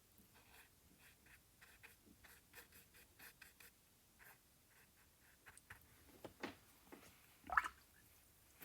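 Paintbrush dabbing and stroking acrylic paint onto the painting: a faint run of soft, short taps and brushing strokes. Near the end come two louder, brief scrapes that rise in pitch.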